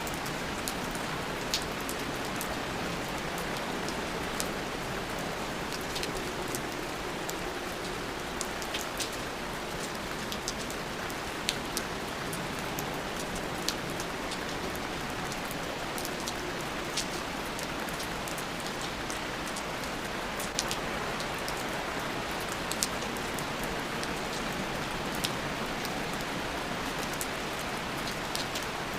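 Steady rain, with scattered individual drops ticking sharply on a surface at irregular moments.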